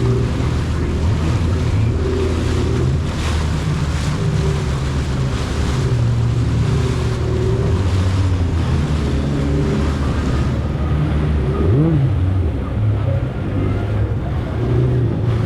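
Jet ski engine running steadily at speed, with wind on the microphone and water spray hissing. About twelve seconds in, an engine briefly rises and falls in pitch.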